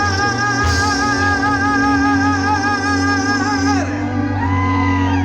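Band music with a singer holding a long final note with vibrato over a steady low bass note; the note cuts off about four seconds in, and voices then call out with sliding pitch.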